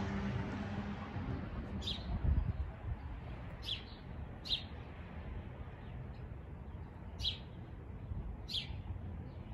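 A small bird giving short, high, falling chirps, about five spread a second or two apart, over the steady low rumble of highway traffic.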